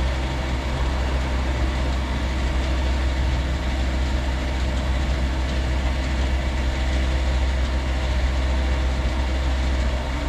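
Petrol pump at a fuel station running steadily while fuel is dispensed into a car's tank: a loud, even, low motor hum.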